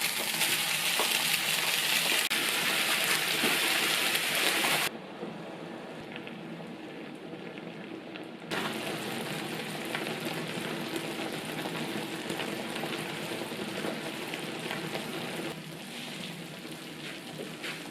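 Food frying in a pan, a steady sizzle that drops away abruptly about five seconds in and comes back a few seconds later.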